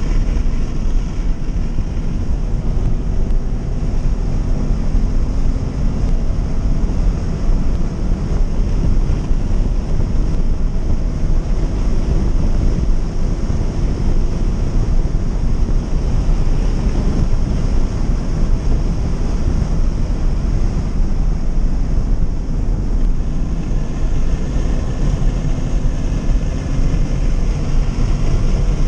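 Scion FR-S's 2.0-litre flat-four engine heard from inside the cabin while driven hard on a race track, its revs slowly climbing and falling, under a constant low rumble of wind and road noise.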